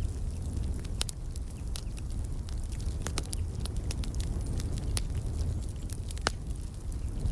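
Wood fire crackling in a fireplace: scattered sharp pops and snaps over a steady low rumble, the sharpest pop about six seconds in.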